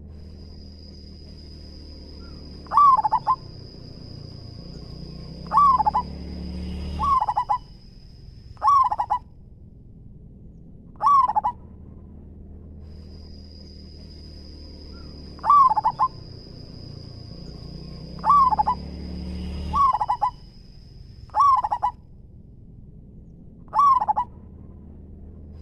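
Zebra dove (perkutut) cooing: about ten short, loud coo phrases at irregular gaps of one and a half to four and a half seconds. A thin steady high whine runs behind most of them and stops twice.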